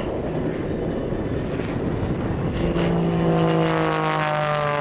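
Pitts S-2B aerobatic biplane's engine and propeller running, a rough drone at first. About two and a half seconds in, a strong, louder pitched drone comes in and slowly falls in pitch.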